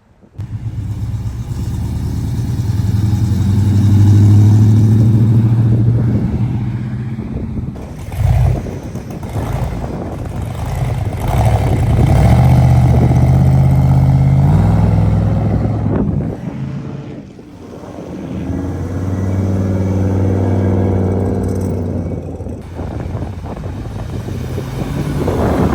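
A car engine revving hard in three long surges, its pitch climbing and falling back between them.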